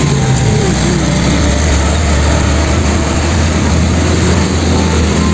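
Steady truck-like engine running sound with a constant low hum.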